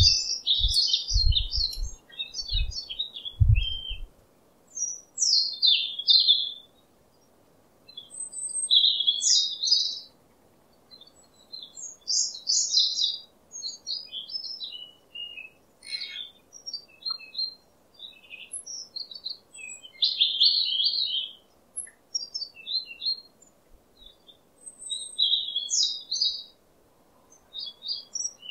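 Wild songbirds singing, in short high chirping phrases of about a second each, repeated every couple of seconds. A few low thumps are heard in the first few seconds.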